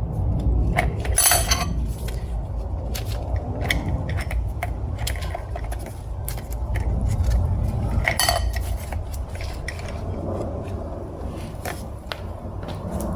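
Steel clutch plates from a Toyota U760E automatic transmission clinking and scraping against each other as they are handled and lifted out of the clutch pack. Two louder ringing clinks come about a second in and about eight seconds in, over a low steady rumble.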